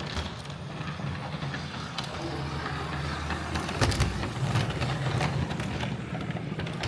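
Railway train running along the track: a steady low rumble with scattered clicks and knocks from the wheels on the rails.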